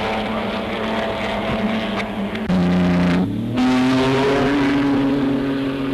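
Pre-war Grand Prix racing car engines running at high revs on an old, poor-quality film soundtrack. Each engine note is held steady, then jumps abruptly to a new pitch twice around the middle.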